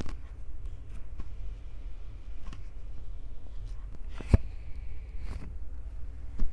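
Hands gripping and squeezing a Tascam recorder right on its microphones: a steady low handling rumble with scattered light taps and clicks, and two short scratchy rubs about four and five seconds in.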